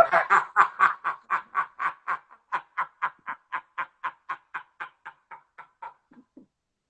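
Hard, breathy laughter in a long run of rapid, even bursts, about four a second, gradually fading out.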